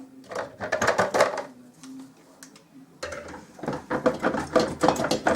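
Metal tools and parts clinking and clattering in quick, irregular knocks, in two busy spells with a quieter gap between.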